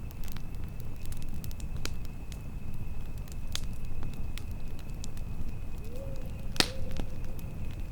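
Wood campfire crackling, with irregular sharp pops and one louder pop about two-thirds of the way through, over a steady low rumble of wind. A faint steady high tone runs underneath.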